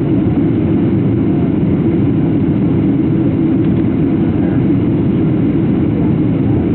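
Steady cabin drone inside a Boeing 737-700 in flight: the low rumble of its CFM56 turbofan engines and rushing airflow, heard from a window seat.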